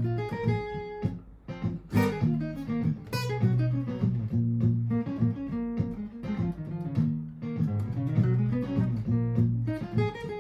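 Martin GPCPA4 acoustic guitar improvising: picked and strummed notes over sustained low chords, with looped guitar parts playing underneath.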